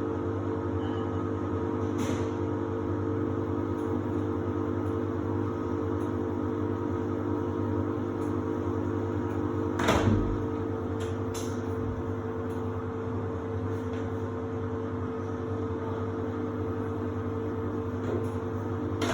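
Samsung WD70T4047CE washer-dryer running with a steady, even hum, with one short knock about ten seconds in and a few faint clicks.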